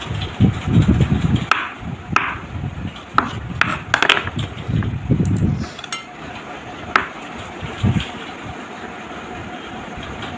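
Knife cutting boiled potatoes into chunks, the blade knocking irregularly against the cutting surface, with low handling thuds in the first half.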